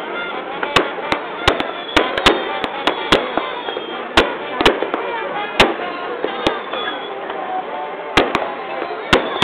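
Aerial firework shells bursting in a quick, irregular series of sharp bangs, more than a dozen, over a constant background din.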